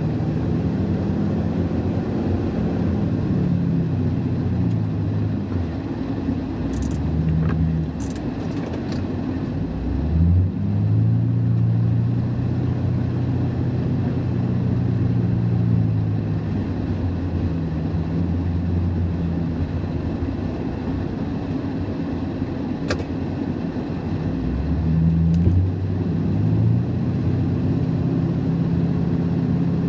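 Ford F-350's 5.4-litre V8 engine running under varying throttle, its note rising and falling, with clear pick-ups about ten seconds in and again near twenty-five seconds. A few short sharp clicks are heard around seven to eight seconds and at about twenty-three seconds.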